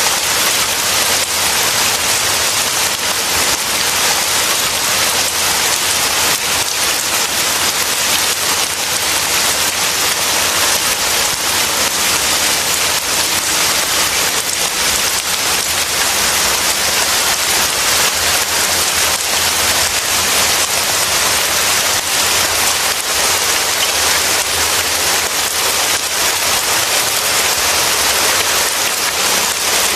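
Steady heavy rain: a dense, even hiss of falling drops that keeps on without let-up.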